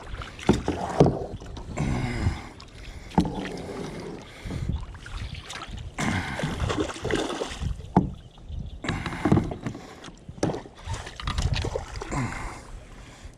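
Irregular knocks and clunks against a kayak hull, with stretches of sloshing and rustling noise in between.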